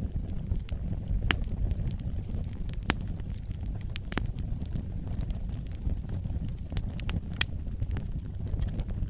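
Wood campfire burning: a steady low rumble with frequent sharp crackles and pops from the burning wood, and a few louder snaps about a second, three seconds and seven seconds in.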